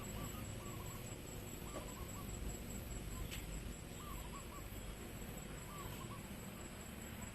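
A bird calling in short, low, hooting notes that repeat every second or two, over a steady high whine and a low background rumble.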